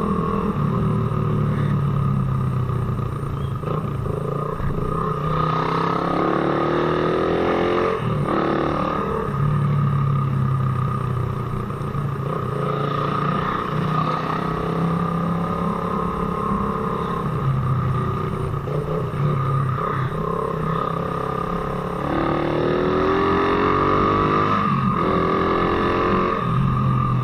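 Suzuki Raider 150 motorcycle's single-cylinder four-stroke engine running while riding, its pitch rising as it accelerates twice, with short dips between gear shifts.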